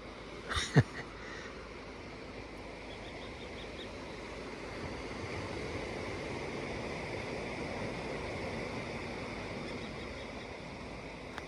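A distant bird giving a faint laughing, yaffle-like run of quick notes, over a steady rushing background that swells in the middle. A short knock sounds just after the start.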